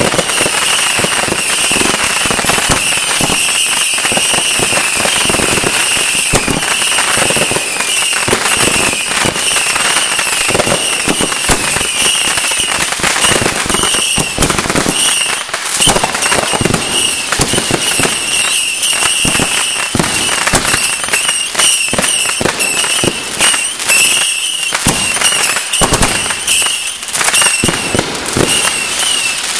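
Consumer fireworks finale: many aerial shells, cakes and fountains firing at once, making a dense, continuous barrage of cracks, pops and crackle over a steady hiss.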